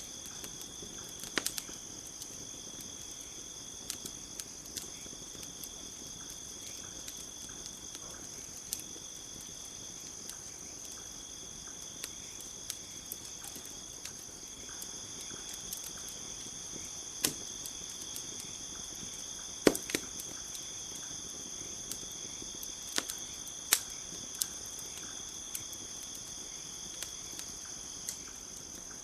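Campfire crackling, with irregular sharp pops scattered through, a few louder ones in the second half. Under it runs a steady high chirring of crickets.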